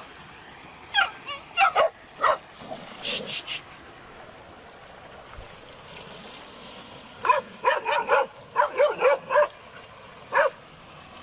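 Dogs barking at a crocodile: short, sharp, fairly high barks and yips in scattered bursts, then a rapid volley of about eight barks after a brief lull.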